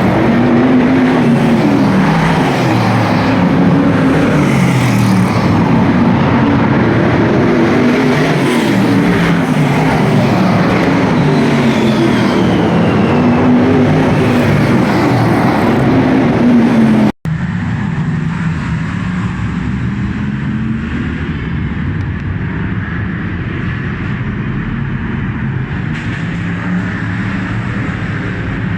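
V8 stock car engines racing round an oval, their pitch rising and falling every few seconds as the cars lift for the bends and accelerate down the straights. A sudden cut a little past halfway switches to another stretch of the same kind of engine noise, slightly quieter and duller.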